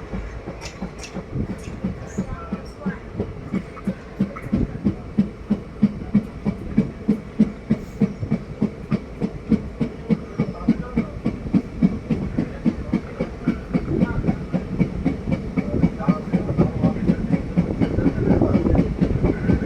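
ICF passenger coach running on the track: its wheels clickety-clack over the rail joints over a steady rumble, the beat quickening to about three knocks a second as the train gathers speed, and growing a little louder near the end.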